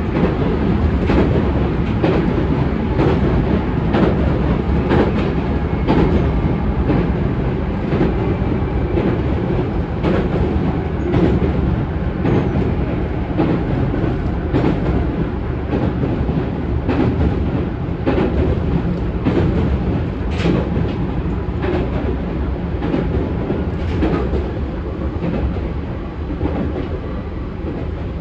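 Interior running sound of a JR Central 211 series 5000 electric train at speed. Wheels rumble steadily on the rail, with sharp rail-joint clacks roughly once a second, and the sound eases slightly near the end.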